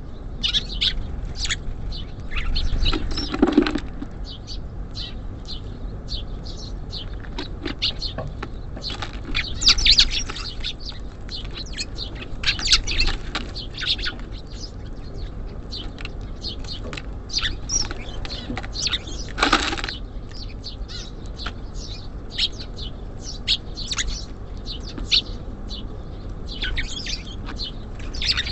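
Small songbirds at a feeder chirping in quick short calls throughout, with wings fluttering. There are two louder, fuller flutters, about three seconds in and again near twenty seconds.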